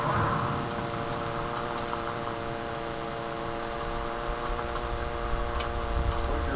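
Steady rain hiss with a constant droning hum underneath and a few light ticks; a low rumble of wind on the microphone builds over the last couple of seconds.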